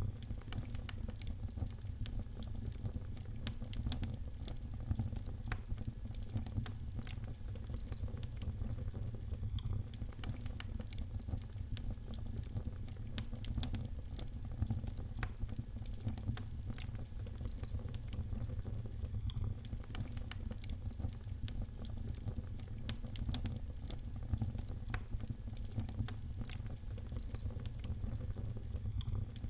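Wood fire in a fireplace crackling, with many small sharp pops scattered irregularly over a steady low rumble of the flames.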